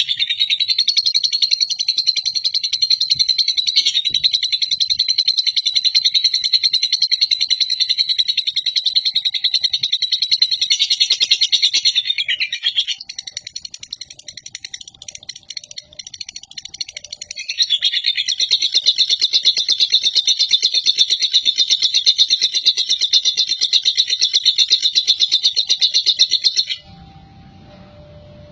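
A lovebird chattering in its long, rapid, high-pitched trill ('ngekek panjang'), in two long unbroken runs: one of about thirteen seconds, then after a few quieter seconds another of about nine seconds, stopping shortly before the end.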